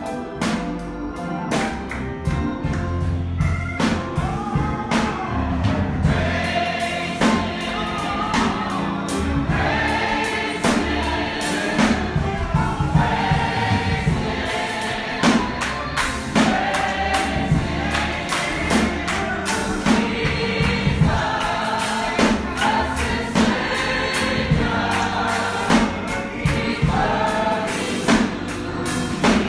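Church congregation singing a gospel song together over a steady drum beat.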